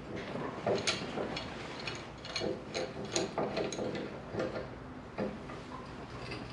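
Irregular metallic clicks and knocks as steel parts are handled: a steel wear plate being positioned and clamped against a baler hitch held in a vise.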